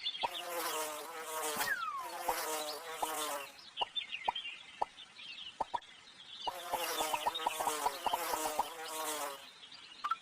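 Flies buzzing in two spells of about three seconds each, with short sharp clicks between them.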